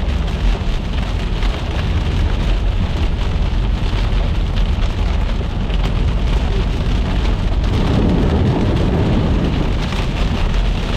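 Heavy precipitation from a hailstorm beating on the roof and windshield of a moving vehicle: a dense patter full of sharp ticks over a steady low road rumble, getting heavier about eight seconds in.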